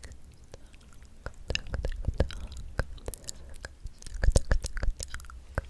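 ASMR mouth sounds: a quick irregular run of wet clicks and smacks of the lips and tongue, thickest and loudest a little past the middle.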